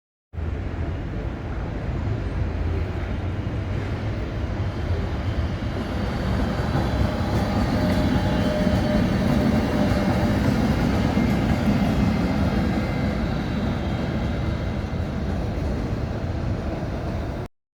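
A train running on the rails: a steady rumble with faint higher tones in it. It starts abruptly, grows louder toward the middle, eases off, then cuts off suddenly.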